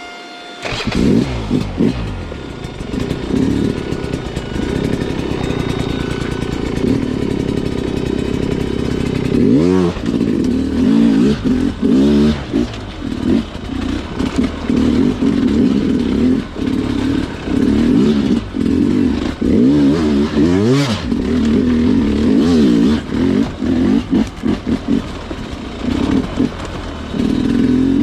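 Sherco two-stroke dirt bike engine revving up about half a second in, then running with the throttle opening and closing over and over as it climbs a technical trail. There are sharp rev blips near ten and twenty-one seconds in.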